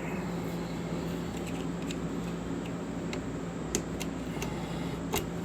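A few light metallic clicks as a flat screwdriver pries at the safety pin that locks a motorcycle's rear axle nut, over a steady background hum from a shop fan.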